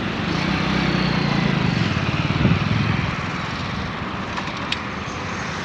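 A vehicle engine running steadily with road and wind noise, easing off and getting quieter about three seconds in.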